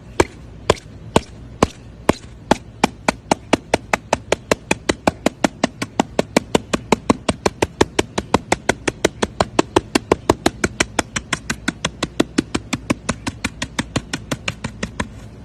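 A rapid series of sharp, evenly spaced knocks, speeding up from about two a second to about four or five a second and keeping that pace until they stop near the end.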